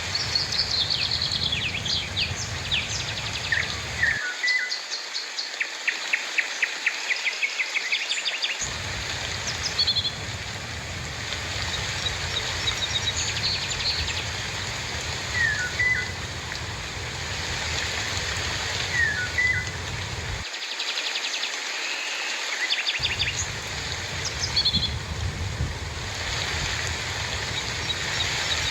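Steady rainfall with birds calling over it: a quick run of repeated chirps in the first several seconds, then short scattered calls.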